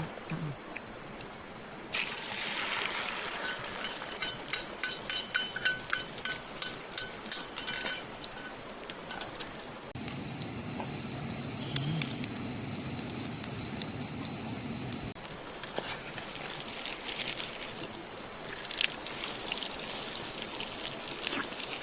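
Steady high drone of forest insects such as crickets, with a run of irregular clicks and clatters from about 2 to 8 seconds in. A low rushing, water-like sound follows and lasts for about five seconds.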